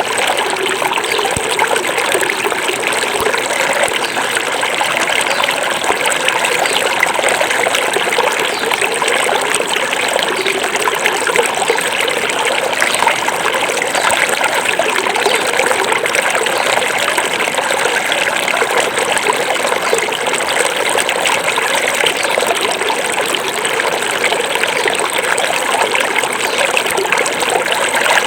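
Small forest river flowing steadily over rocks, a continuous rushing and trickling of water.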